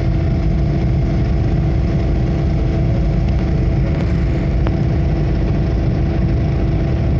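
Twin-turbo Coyote 5.0 V8 Mustang heard from inside the cabin, running at a steady, light throttle with engine drone and road noise; no revving or acceleration.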